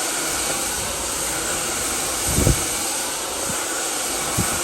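FEIL Plus infrared hair dryer running on a steady airflow, a constant rushing blow. There is a brief low bump about two and a half seconds in.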